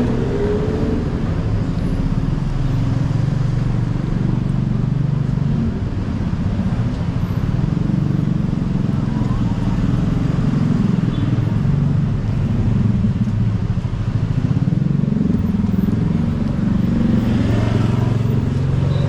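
A vehicle engine running steadily close by, its pitch drifting slightly up and down.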